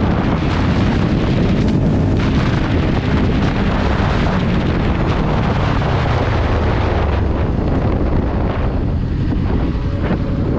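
Motorcycle riding at speed: wind noise buffeting the camera's microphone over the steady run of the bike's engine. The rushing hiss thins out about eight and a half seconds in while the engine sound carries on.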